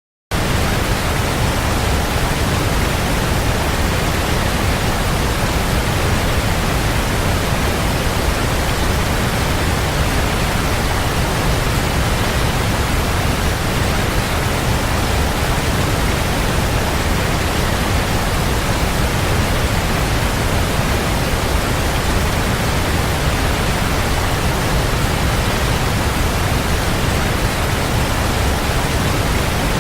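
Waterfall: a steady, unbroken rush of falling water, full and deep, without change.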